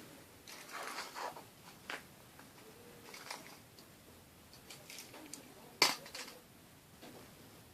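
Toys being handled and set down on a miniature set: scattered soft clicks and rustles, with one sharper click about six seconds in.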